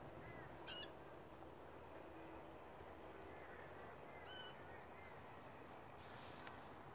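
Faint outdoor quiet with a few short, high bird calls: two clearer ones about a second in and at about four and a half seconds, and soft chirps between.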